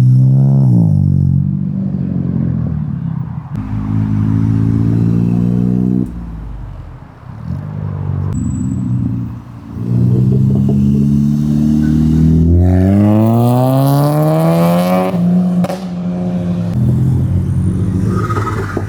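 Car engines idling and revving as cars roll past, with one engine revving up in a long rising sweep for a couple of seconds past the middle before dropping back.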